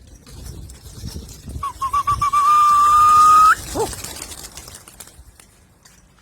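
A loud whistle, starting with a few quick warbles, then held on one steady note for about two seconds before rising sharply and cutting off.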